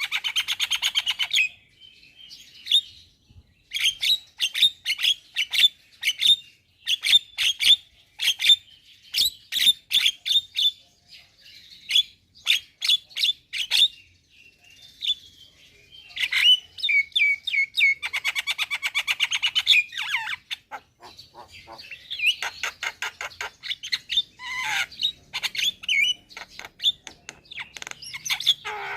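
Javan myna singing vigorously: long runs of sharp, rapidly repeated whistles and chattering notes with short pauses between phrases. Fast rattling trills come at the start and again about two-thirds of the way through.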